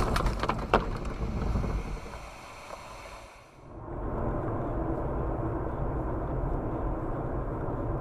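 Car road and engine noise heard from inside the cabin, fading over the first three seconds. About four seconds in, a different steady hum of road and engine noise takes over.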